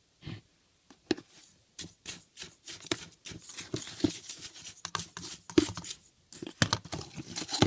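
Soda crystals being handled and put into the washing machine: a run of sharp clicks, crunches and gritty pattering, with packet rustle.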